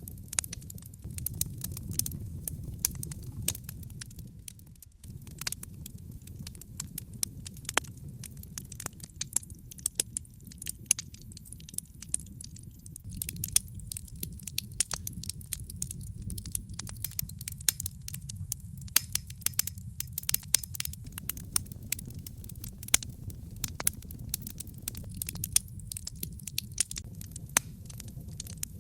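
Wood logs burning in a fireplace, crackling with frequent sharp, irregular pops and snaps over a low, steady rumble of flame.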